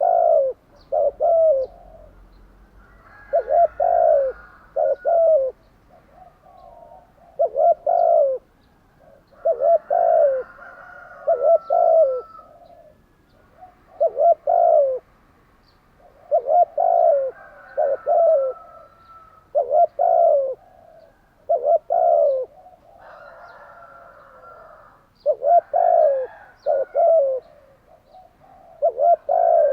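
Spotted dove cooing: short phrases of two or three low coos repeated every two to three seconds, with faint higher twittering between them.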